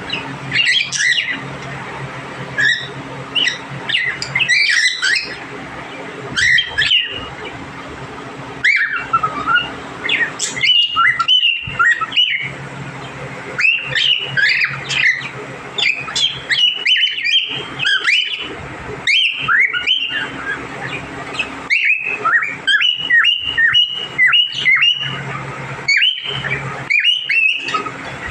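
Small pet parrots chirping, squawking and chattering in quick, overlapping calls, over a steady low hum.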